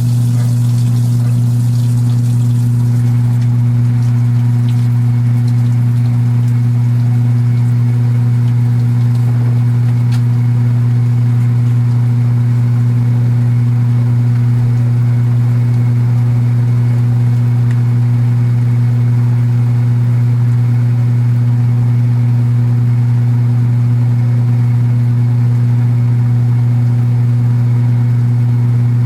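Kenmore belt-drive portable washing machine running steadily, with a loud, even hum from the motor and a buzz the owner traces to the cabinet. A hiss of water fades out about three seconds in.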